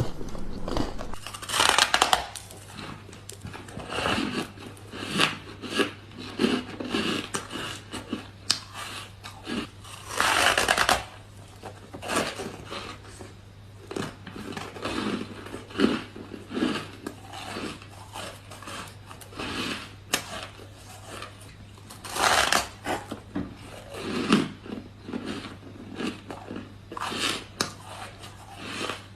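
Close-miked bites into ice: irregular crunching and cracking of ice between the teeth. The loudest crunches come about 2, 10 and 22 seconds in, with smaller crackles between.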